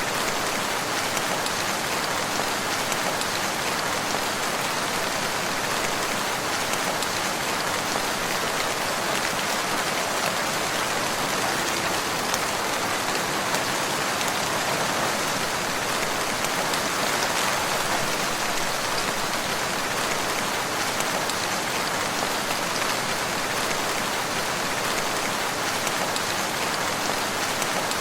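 Steady rain falling and pattering on surfaces, a constant even hiss without thunder or breaks.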